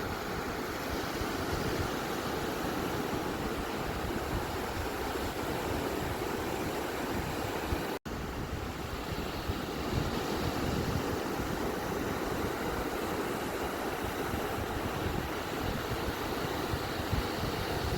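Ocean waves breaking on a beach as a steady, continuous wash of surf, with one brief cut to silence about eight seconds in.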